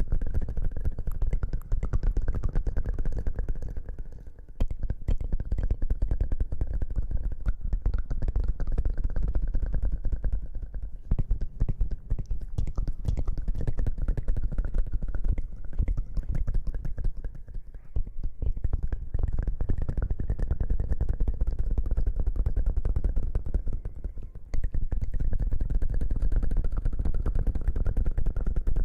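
Close-miked ASMR rustling and scratching: a dense, crackly rubbing with a strong low rumble, broken by brief pauses about every six or seven seconds.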